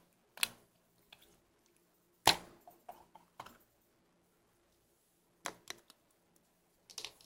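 Slime being squished and pressed by hand, giving scattered sharp sticky pops and clicks with quiet gaps between them. The loudest pop comes a little over two seconds in.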